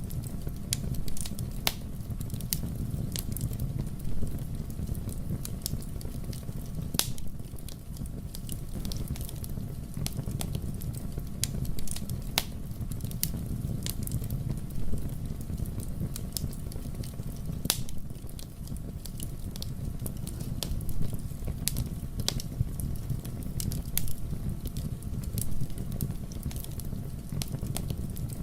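Wood fire burning in a fireplace: a steady low rumble of flames with frequent sharp crackles and pops scattered irregularly.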